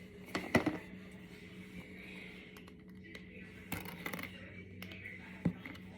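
Small plastic Brain Flakes discs clicking and tapping as they are handled and pushed together: a few sharp clicks in short clusters, over a faint steady hum.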